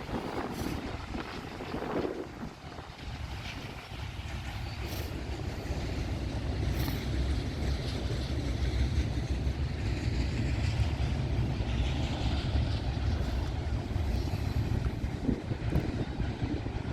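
Train passing at close range: a low, steady rumble that builds a few seconds in and holds, with wind on the microphone.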